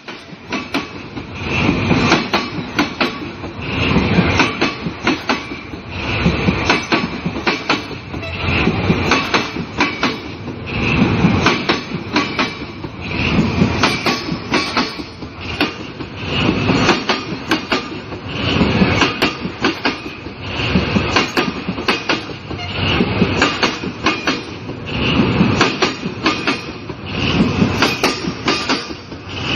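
Train wheels clattering over rail joints in a steady clickety-clack, the knocks swelling in a repeating pattern about every two seconds, with a steady high whine above.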